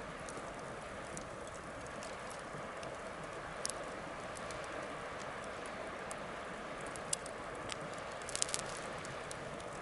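Wood bonfire burning with a steady hiss and a few sharp crackling pops, the loudest a quick cluster of pops near the end.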